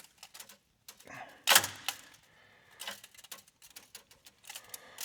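Scattered clinks and knocks of hand tools and exhaust hardware being handled, with one louder knock about a second and a half in and lighter ticks after.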